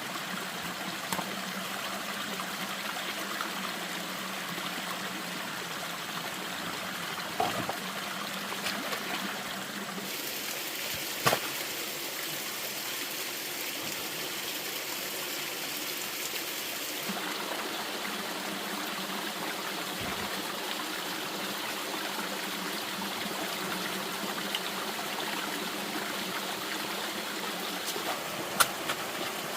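Steady running water trickling and splashing, with a few sharp knocks along the way.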